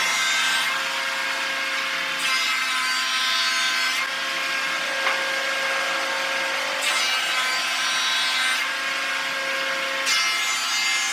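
An electric power tool running steadily while working wood, its motor tone unchanging, with several stretches where the cut or pass bites in and adds a harsher hiss.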